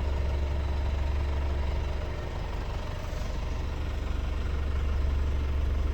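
Renault D 10.210 truck's 5.1-litre four-cylinder inline diesel engine idling steadily with a deep, even rumble.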